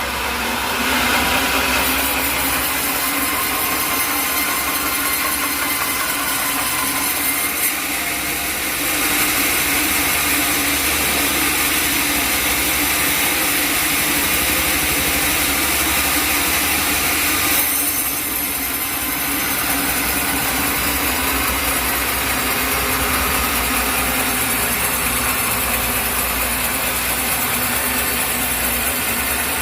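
Engine-driven sawmill running steadily while its blade saws through an acacia log. The high-pitched cutting noise swells about nine seconds in and eases off a little after seventeen seconds, over a constant low engine hum.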